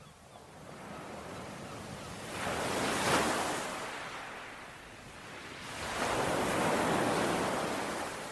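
Ocean waves washing onto a shore: two surges that build and fade, one peaking about three seconds in and a longer one from about six seconds.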